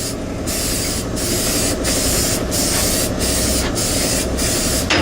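A hissing spray that stops briefly every half second or so, over a steady low hum.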